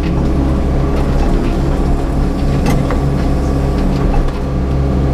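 Yanmar crawler excavator's diesel engine running steadily under work, with a few light knocks and one sharper knock about two and a half seconds in.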